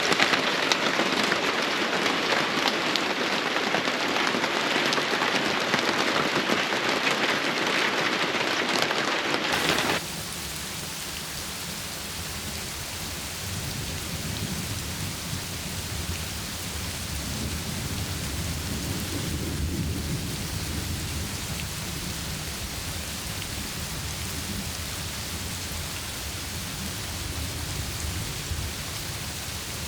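Heavy rain pouring steadily, a dense hiss. About ten seconds in it cuts abruptly to a quieter, duller rushing with more low rumble.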